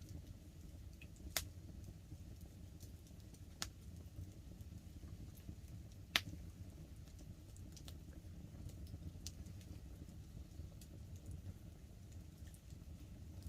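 Wood campfire crackling, with scattered faint ticks and three louder sharp pops about one and a half, three and a half, and six seconds in, over a steady low noise.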